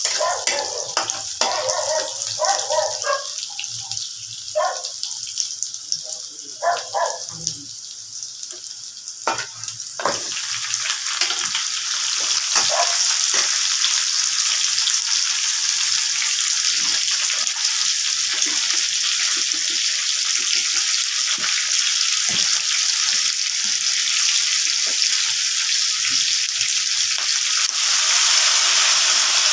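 Food frying in a hot pan: a steady sizzle that starts about ten seconds in and quickly grows louder, with scattered clicks of stirring. A few short voice-like sounds come in the first seconds.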